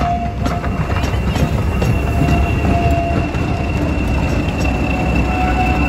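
A diesel-hauled passenger train of coaches rolling slowly past over pointwork. Its wheels squeal steadily at a high pitch and click over the rail joints, over the low rumble of the wheels and the mainline diesel locomotive's engine.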